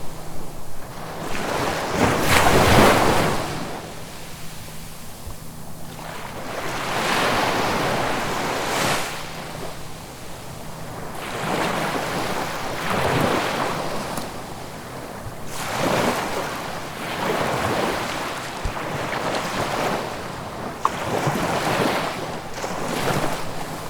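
Ocean waves breaking and washing on the shore, a surge every few seconds rising and falling away, the loudest about three seconds in.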